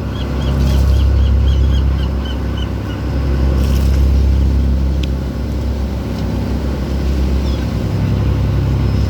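Fishing boat's engine running with a steady low rumble. A quick run of short high chirps sounds over it in the first two seconds.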